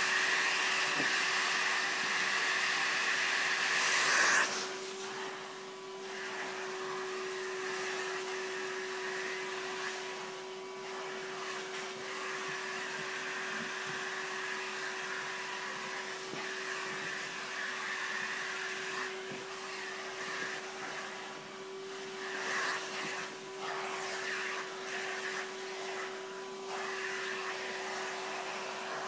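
Vacuum cleaner running steadily: a constant motor hum with a rushing hiss of air. The suction noise is louder for the first four seconds or so, then drops and wavers as the nozzle moves and is partly blocked.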